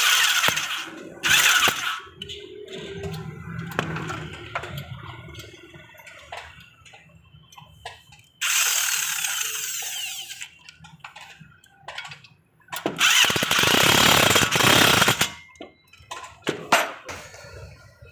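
Power tool running in repeated loud bursts of one to two seconds, five in all, with quieter clinks of work on the suspension parts between them.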